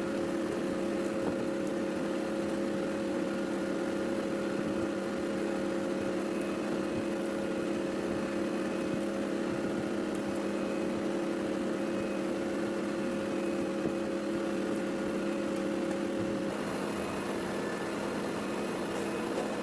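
A steady mechanical hum made of several fixed tones, unchanging until its tone pattern shifts about three seconds before the end.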